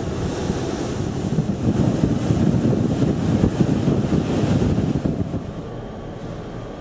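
Wind buffeting the microphone on a ferry's open deck: a steady rumbling rush that eases a little in the last couple of seconds.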